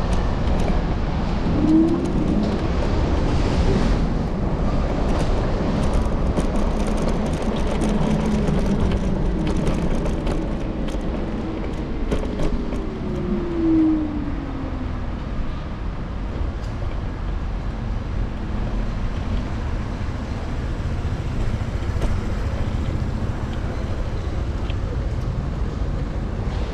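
City street traffic and road noise heard while riding an electric scooter, with a steady low rumble picked up by a microphone on the handlebars. A tone slides down in pitch about halfway through.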